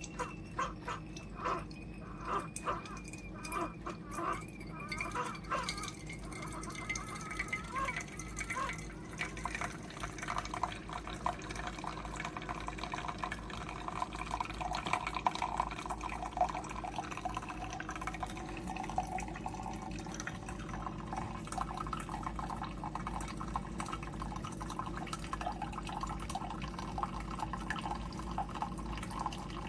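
Keurig K-Supreme Plus single-serve brewer dispensing coffee into a cup. It starts with separate drips and spurts, then from about six seconds in becomes a steady stream filling the cup.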